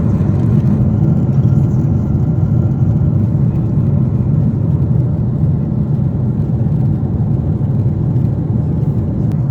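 Steady low rumble of engine and airflow noise inside a Boeing 747-8 airliner's cabin, even and unbroken throughout.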